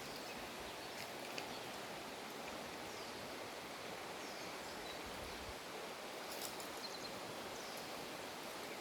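Steady rushing outdoor ambience, with a bird repeating short high falling calls every second or so.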